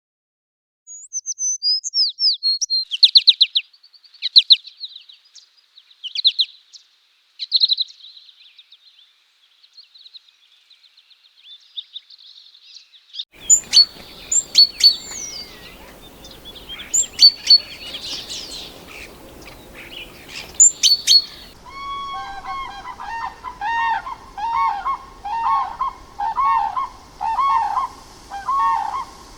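Birds singing and calling, in what sound like separate recordings back to back. First come rapid high chirps and trills. About halfway through, a different bird gives sharp high calls over a noisier background. Near the end, a lower call with overtones repeats about twice a second.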